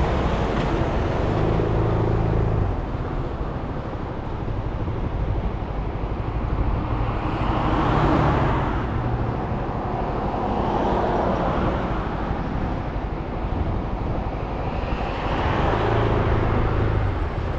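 Suzuki Burgman 400 scooter running under way, its engine a steady low drone mixed with road and traffic noise. A rushing noise swells and fades several times, strongest about halfway through.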